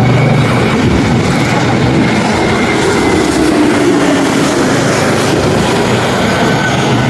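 Jet aircraft engines running, loud and steady, with a faint high whine.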